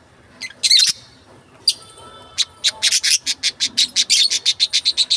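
Small pet parrots chirping shrilly: a short burst of calls about half a second in, then a fast run of sharp, high chirps, about five a second, from about two and a half seconds in.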